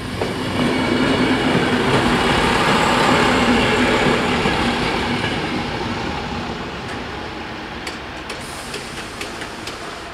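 Passenger train rolling over a level crossing. The rumble swells to its loudest about three to four seconds in and fades as the train moves off. A series of sharp clicks follows in the last few seconds.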